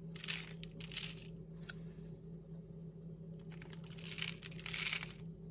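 Dry breadcrumbs rustling and crunching as they are handled and scattered over the food, in two spells, at the start and about four seconds in, with a steady low hum underneath.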